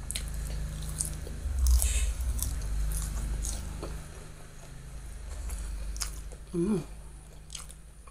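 Close-miked chewing of a mouthful of raw bean sprouts, with crunching and wet clicks. A brief hum of the voice comes about two-thirds of the way in.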